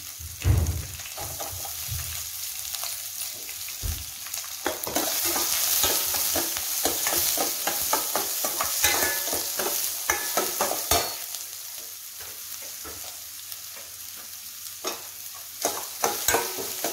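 Sliced onions, dried red chillies and curry leaves sizzling in hot oil in a steel kadai, with a steel spoon scraping and knocking against the pan as they are stirred. The sizzle grows louder for several seconds midway.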